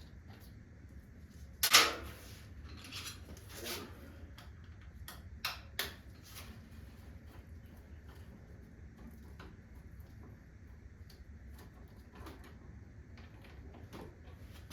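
A few sharp knocks and clicks of objects being handled, the loudest a little under two seconds in and two quick ones near the six-second mark, over a faint steady low hum.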